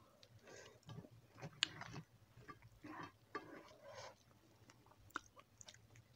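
Faint chewing of crispy fried chicken feet, with scattered small clicks and soft handling sounds.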